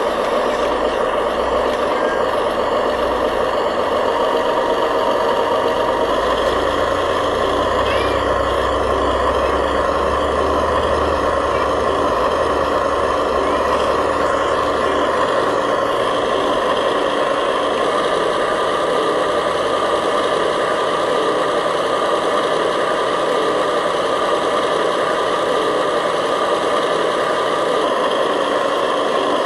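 Radio-controlled model construction machines running: a steady motor and gear whine with an engine-like drone, and a low rumble underneath that drops away about halfway through.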